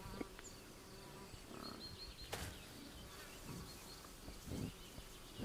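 Faint, steady buzzing of insects, with a few short high chirps about two seconds in and some soft low sounds in the second half.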